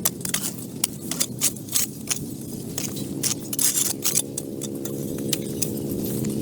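An engine running steadily, with many sharp metallic clicks and clinks over it, several a second.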